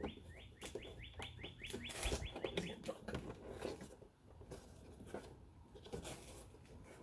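A small bird chirps in a rapid run of short rising notes for about the first three seconds, over light clicks and knocks of parts being handled.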